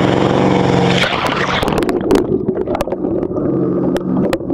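Wake boat's inboard engine running steadily under way, with rushing wind and water noise that drops away about a second in, followed by scattered sharp clicks.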